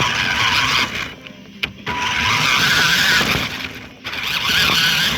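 Toy RC Jeep Wrangler's small electric drive motor and gearbox whining in three bursts as the throttle is applied and let off, with short pauses between.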